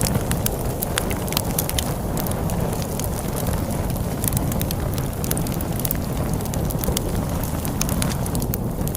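Crackling wood fire, with many sharp pops and snaps, over a steady low rumble of storm wind.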